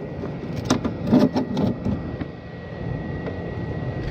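Steady rain falling, with a few clinks and knocks of hand tools being handled in the first couple of seconds, and a faint steady high tone underneath.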